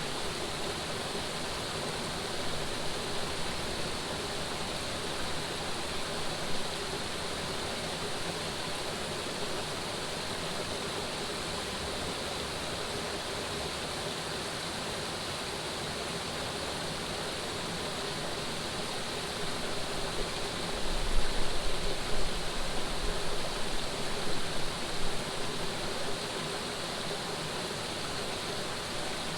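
Running water rushing steadily, a stream or small fall of water giving an even hiss. About two-thirds of the way through, gusts of wind buffet the microphone with a low, uneven rumble for several seconds.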